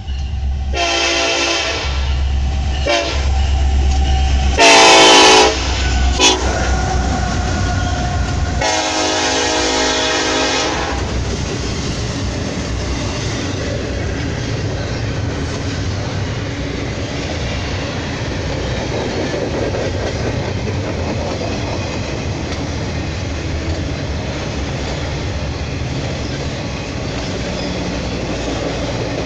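Norfolk Southern intermodal freight train passing close by: the locomotive horn sounds several blasts in the first ten seconds or so, the loudest about five seconds in and a long one ending about eleven seconds in. After that the steady rumble and clatter of double-stack container cars rolling past on the rails.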